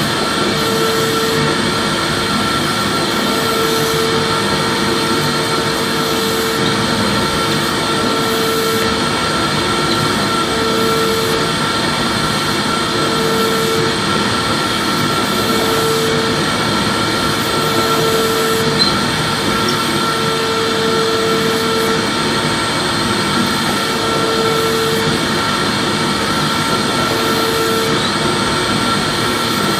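Vacuum cleaner running steadily with a constant motor whine over its rushing airflow. A lower hum swells in and out about every two seconds.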